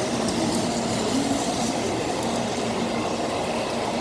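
Shinkansen train running along the station platform, a steady rumble of rolling noise.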